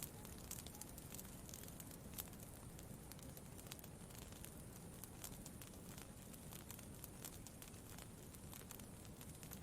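Campfire crackling quietly: irregular small snaps and pops over a low, steady rumble.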